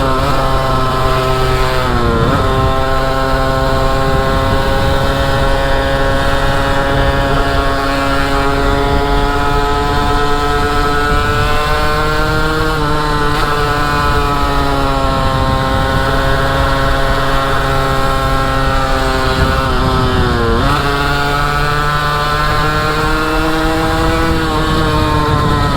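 Derbi motorcycle engine running at steady high revs while riding. Its pitch drops sharply and climbs back about two seconds in and again about twenty seconds in, as at gear changes.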